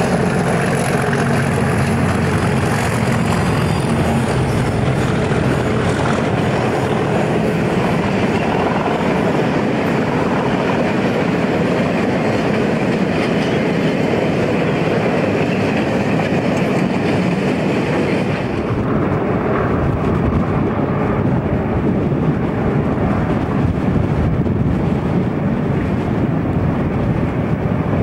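Two Class 37 diesel locomotives pass at the head of a long train of tank wagons, followed by the wagons' wheels rolling by with a steady clatter over the rail joints. The higher wheel noise drops away about two-thirds of the way through as the train draws off.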